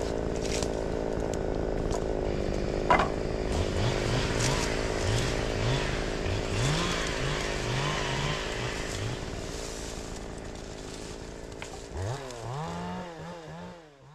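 Two-stroke chainsaw engine blipped in a series of short revs over a steady engine running, then revved up and held high near the end before the sound fades out.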